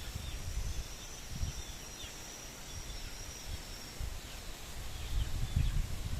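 Strong gusty wind buffeting the microphone in uneven low rumbles, growing louder near the end. Over it an insect holds a thin steady high buzz that fades out about halfway, and birds give short downward chirps several times.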